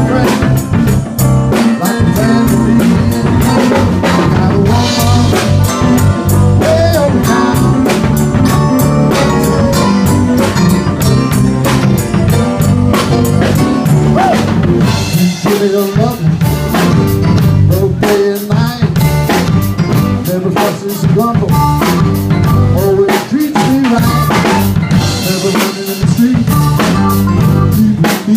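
Live blues band playing an instrumental stretch, the drum kit keeping a steady beat with snare and bass drum under the band.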